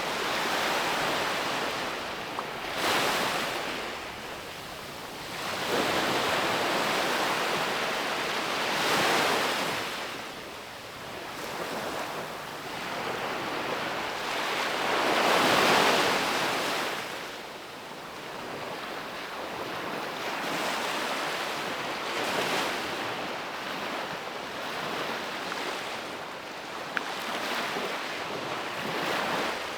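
Ocean waves breaking and washing on a beach, the surf swelling and fading in surges every few seconds, the biggest about halfway through.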